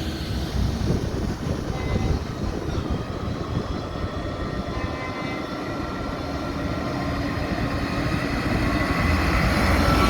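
Tractor engines running as tractors drive past in procession; the rumble builds again near the end as another one comes closer.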